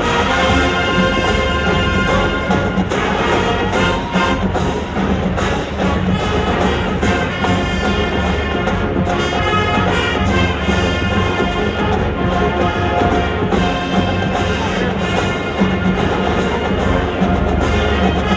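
Marching band playing a pop arrangement on brass, with drums keeping a steady beat.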